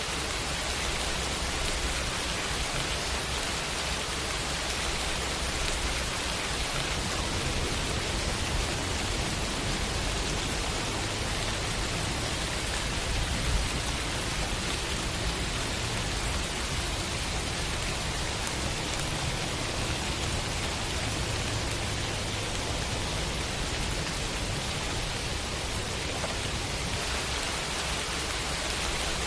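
Steady city rain: an even hiss of falling rain with a low rumble underneath. There is one brief louder tap about halfway through.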